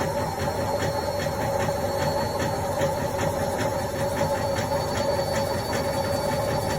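Indesit washing machine running on a quick cotton wash: a steady motor hum with a regular light ticking about three times a second.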